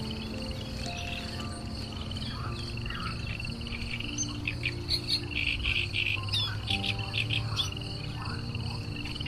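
Insects trilling steadily, with a flurry of quick bird chirps in the middle, over soft music of long held low notes.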